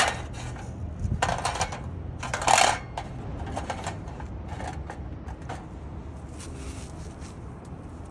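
Thin metal pieces clattering and clinking as they are handled: a run of clanks about a second in, a louder clatter about two and a half seconds in, then scattered lighter clinks.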